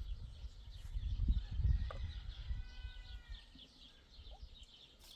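Birds chirping steadily over a low rumble, with a short held animal call about two and a half seconds in.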